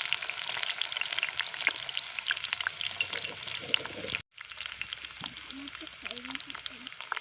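Food frying in hot oil in a pan: a dense, steady crackling sizzle. It breaks off for a moment a little past halfway, then goes on somewhat quieter.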